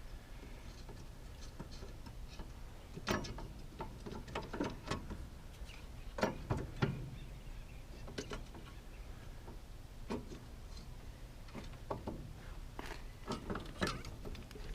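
Scattered light metallic clicks and knocks as an axle shaft is slid back into its housing past a fresh seal and turned so its splines engage.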